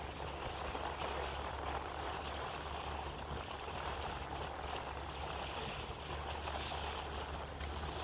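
Motorboat under way: a steady low engine hum beneath an even rush of wind and water.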